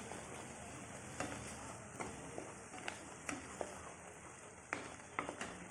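Spiced onion-tomato masala paste sizzling in oil in a pan while a spoon stirs it, clicking and scraping against the pan every so often.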